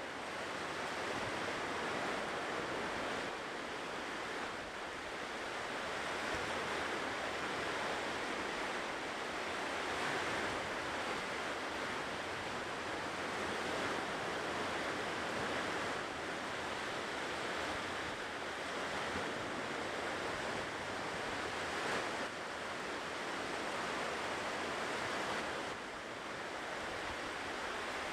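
Ocean surf washing on a shore: a steady rush of wave noise that swells and eases slightly in loudness.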